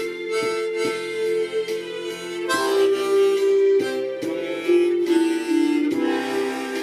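Amateur harmonica playing a slow melody in long held notes, over a backing track with soft percussive beats.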